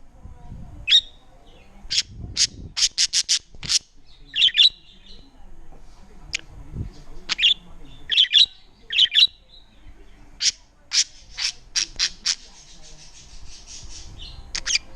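Female budgerigar giving a string of short, sharp chirps and squawks, with a quick run of several about three seconds in and a few brief warbling chatters.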